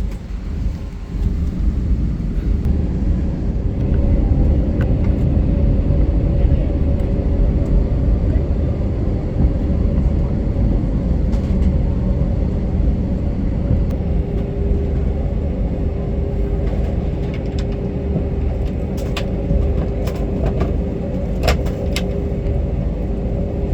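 Jet airliner cabin noise: a steady low rumble from the engines and airflow with a constant hum over it. A few sharp clicks or rattles come near the end.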